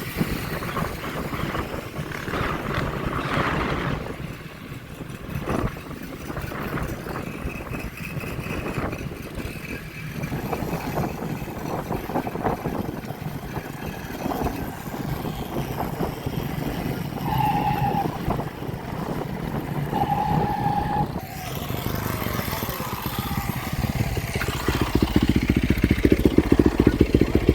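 Motorcycle and dirt bike engines running and revving on the road, with a loud engine close by near the end. Two short beeps sound a few seconds apart just past the middle.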